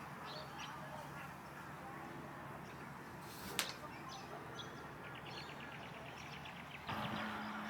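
Faint calls of small wetland birds: scattered short chirps, then a rapid ticking trill about five seconds in, with a single sharp click about three and a half seconds in. Near the end, a louder noise with a low steady hum comes in.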